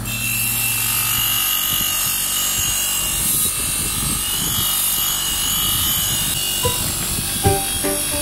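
Electric power tool, such as a grinder or sander, running steadily with a high whine.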